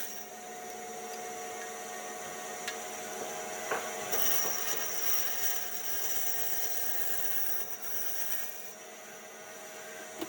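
A power tool running steadily on wood: a continuous motor whine over a rough hiss, with a couple of sharp clicks a few seconds in.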